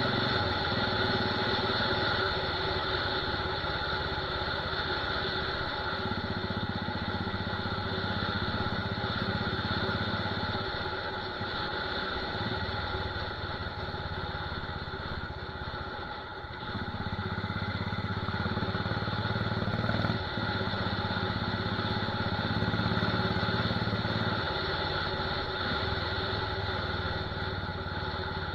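Royal Enfield Desert Storm's single-cylinder engine running through a loud aftermarket torpedo/megaphone silencer. Its low exhaust note strengthens and eases in stretches of a few seconds.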